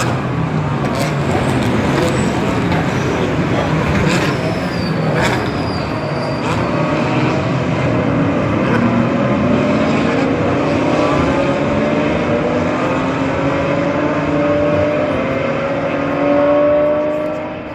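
GT race car engines at a circuit, a continuous dense engine noise with a few sharp cracks in the first half. From about the middle one car's engine note climbs steadily as it accelerates, loudest shortly before the end.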